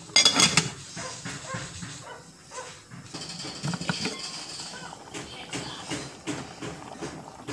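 An aluminium cooking pot and its lid being handled, with a loud metallic clatter just after the start and scattered knocks after it.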